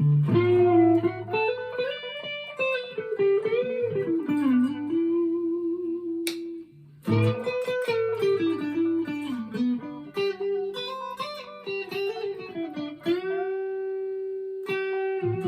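PRS SE McCarty 594 single-cut electric guitar played through an amp: single-note lead phrases with string bends, a short break about six and a half seconds in, then a long held note near the end that rings on, showing the guitar's sustain.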